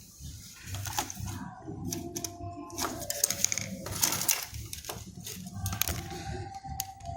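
Scattered sharp clicks and light taps of small hard tools and parts being handled while working on a console, over a faint background tone.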